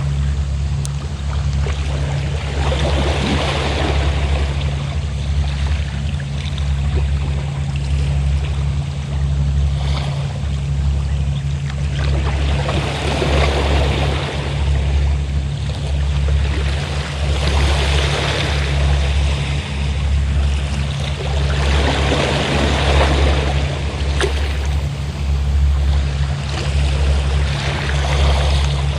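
Waves washing onto the shore, swelling and falling back about every five seconds, over the steady low drone of a fishing boat's engine.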